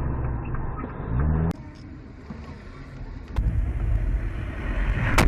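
Car engine and road noise, as heard from inside vehicles, across dash-camera clips cut together. The engine note rises briefly before the first of two abrupt changes in sound.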